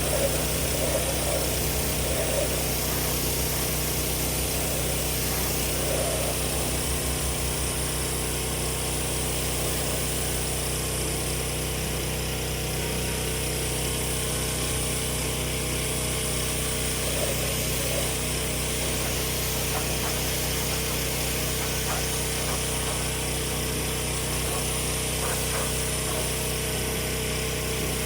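Pressure washer running steadily with a constant engine-like hum, its rolling undercarriage cleaner spraying water upward under a vehicle with an even hiss.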